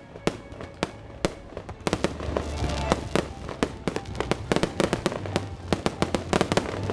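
Fireworks display: a rapid string of sharp cracks and pops, sparse at first and coming thick and fast from about two seconds in, over a low rumble, with music playing in the background.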